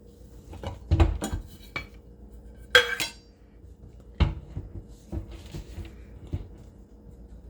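Rock tumbler barrel being handled and opened: a series of knocks and clinks, the loudest a ringing clink about three seconds in.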